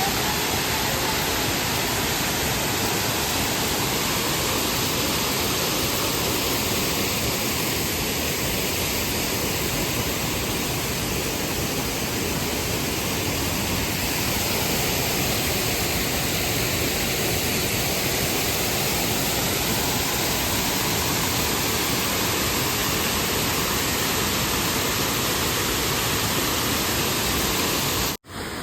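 Waterfall: a steady, even rush of falling water, breaking off suddenly for a moment near the end.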